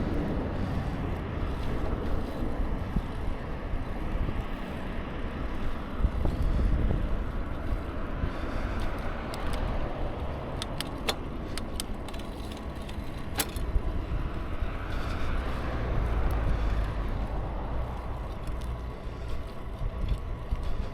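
Wind buffeting the microphone and road noise while riding a bicycle, swelling and easing in gusts. A few sharp clicks come about halfway through.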